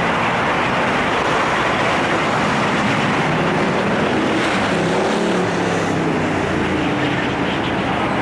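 Steady road traffic noise, with a vehicle engine passing by about halfway through.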